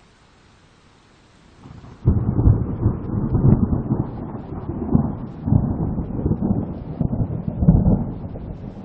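A faint, steady hiss of rain, then about two seconds in a loud rolling rumble of thunder cuts in abruptly, swelling and fading in several waves over the rain.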